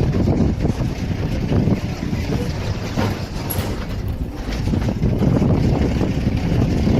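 Loud, uneven low rumbling noise, swelling and easing with no steady tone or rhythm.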